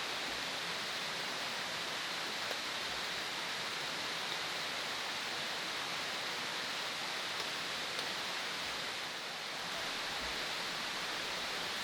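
Steady rushing water noise with no rhythm, easing slightly for a moment about nine seconds in.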